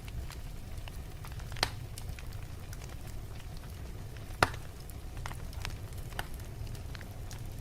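Wood fire burning in a fireplace: a steady low rumble of the flames with scattered crackles, and two louder pops, one about a second and a half in and one near the middle.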